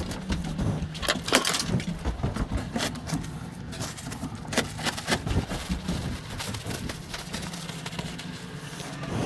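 Hand work on a lawn mower's self-propel drive: tools and metal parts clicking, knocking and scraping at an irregular pace, busiest in the first half, over a low steady hum.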